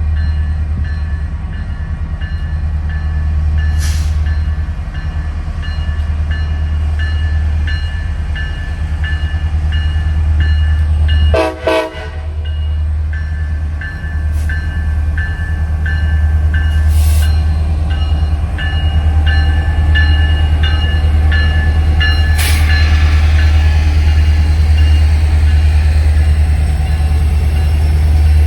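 Railroad crossing bell ringing steadily at about two strokes a second over a heavy low rumble, with one short train horn blast near the middle.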